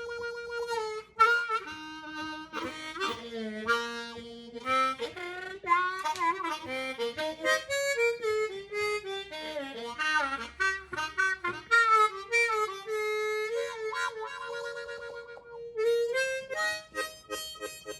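Hohner Crossover diatonic harmonica in A-flat played solo: a melody in phrases of short and held notes, with several notes bent down and back up in pitch.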